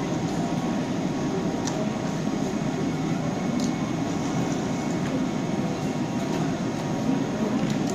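Steady hum of a red double-deck regional train standing at the platform, its ventilation running, mixed with platform bustle and a few faint clicks.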